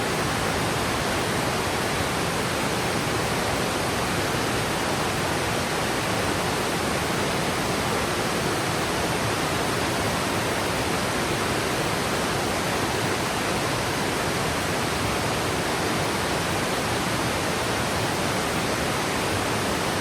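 Yudaki waterfall, water sliding and falling down a steep rock slope, rushing in a steady, unbroken roar.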